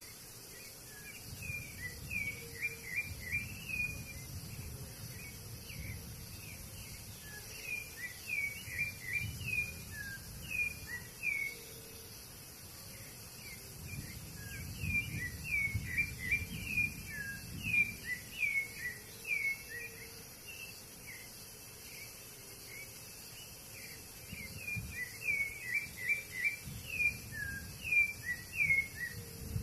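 A bird singing in repeated phrases of quick, short downward-sliding chirps, over a steady high-pitched insect chorus and an uneven low rumble.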